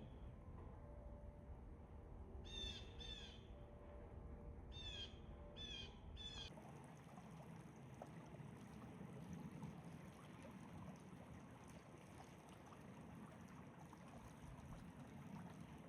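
Faint outdoor ambience: a bird gives short calls in twos and threes during the first six seconds or so. Then the background changes abruptly to a steady, even hiss.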